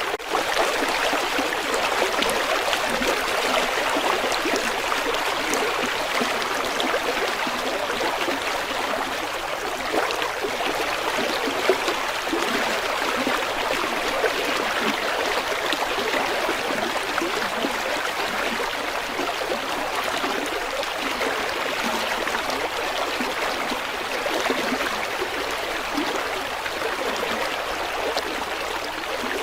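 River water flowing steadily, an even continuous rush with no pauses.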